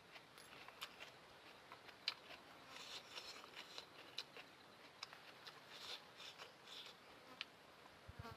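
Faint close-miked eating of noodles: a scatter of small wet mouth clicks and smacks from chewing, with a few brief crackly bursts.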